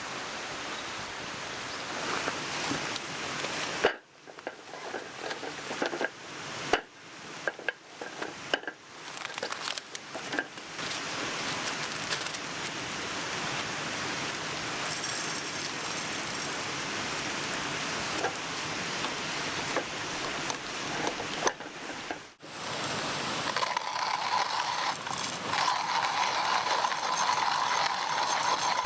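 Steady rushing of a mountain stream, with a run of sharp clicks and knocks of small gear being handled between about 4 and 11 seconds in.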